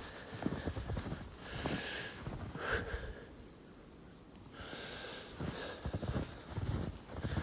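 Footsteps trudging and crunching through deep snow, with heavy breathing, pausing for about a second and a half midway before starting again.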